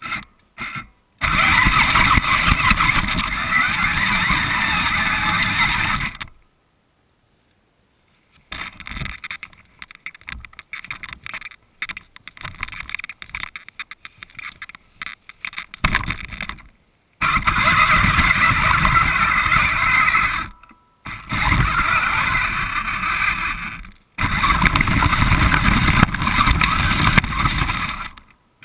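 Radio-controlled car driving with the camera riding on it: several long stretches of loud, even motor and tyre-on-ground noise, broken by short stops. In the middle there is a stretch of choppier, irregular rattling.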